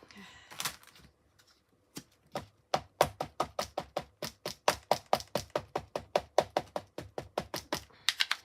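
An ink pad dabbed rapidly and repeatedly onto a rubber stamp to ink it, giving sharp, even taps about five a second from about two seconds in.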